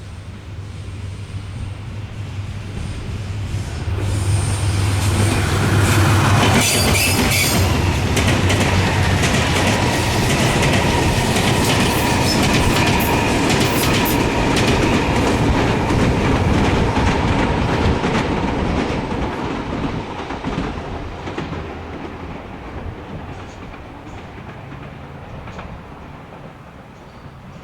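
A train passing close by: it builds up over a few seconds, then its wheels clatter over the rail joints with a steady metallic whine for about fifteen seconds before it fades away.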